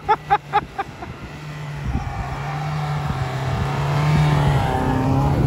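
Škoda Octavia estate's engine working hard in a low gear as it pushes up through deep snow, its wheels churning the snow; the engine gets steadily louder as the car draws near. Near the start, a quick series of about seven short, pitched sounds.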